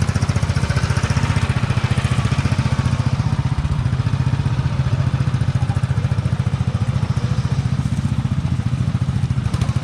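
Riding lawn tractor engine running steadily close to the microphone, a fast even run of exhaust pulses that holds the same speed throughout.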